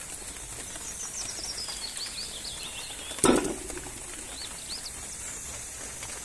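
A small bird chirping: a quick run of high chirps, then a few separate rising chirps, over a steady background hiss. About three seconds in comes one sharp knock, the loudest sound.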